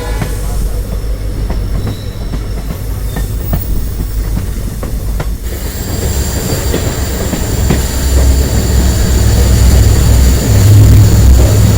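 Train running on the rails: a low rumble of wheels with clicks over the rail joints. About halfway through, a steady high-pitched wheel squeal sets in and the rumble grows louder.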